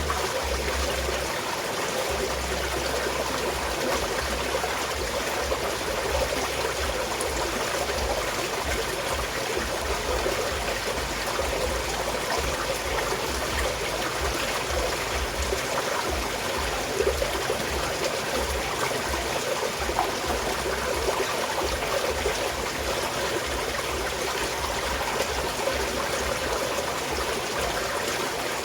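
Small mountain stream flowing and trickling over stones, a steady babble of running water.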